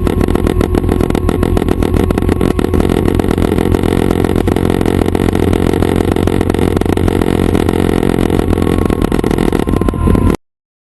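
Schweizer 269 light helicopter running steadily: piston engine and rotor chop, heard at close range. It cuts off suddenly near the end.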